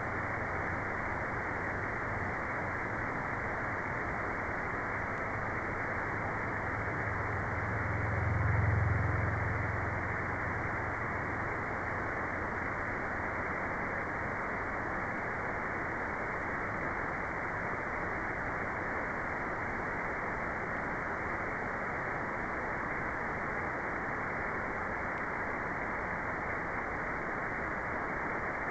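Steady, even white-noise hiss with a muffled, dull character and no high hiss on top. A low hum runs under it in the first part, swells to its loudest about a third of the way in, then fades away.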